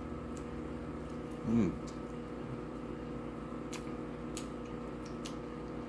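A person chewing a mouthful of burger with a few faint, sharp mouth clicks, over a steady background hum. A short hummed "mm" comes about a second and a half in.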